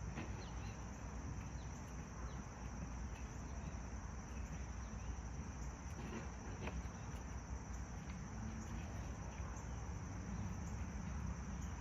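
Crickets chirring in a steady high trill, over a constant low rumble.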